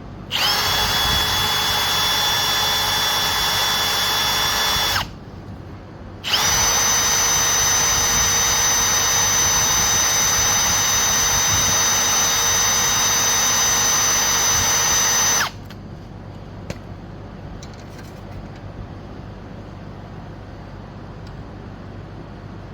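Electric drill running in two steady runs, about five seconds and then about nine seconds, each spinning up at the start, as it bores into a seized steel bolt to make a hole for a screw extractor. The rest is quiet with a faint click.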